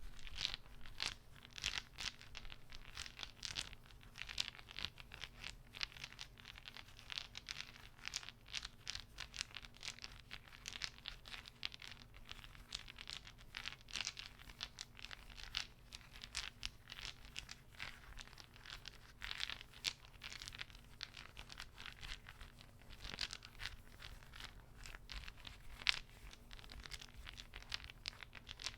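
Close-miked ASMR trigger: rapid, irregular soft clicking with crinkly scratching, several small clicks a second.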